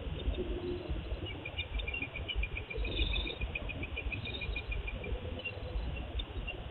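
An insect chirping in a fast run of even pulses, about eight a second, that lasts a few seconds. It is heard through a small CCTV camera microphone with a narrow, muffled range, over a steady low rumble of wind or microphone noise.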